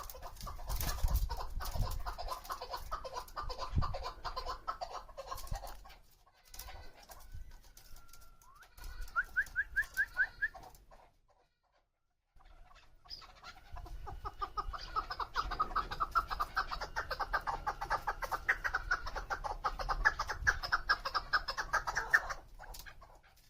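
Female chukar partridge calling: fast runs of rapidly repeated chuk notes, a short rising series about ten seconds in, a brief pause, then a long unbroken run of quick chuk notes that stops shortly before the end.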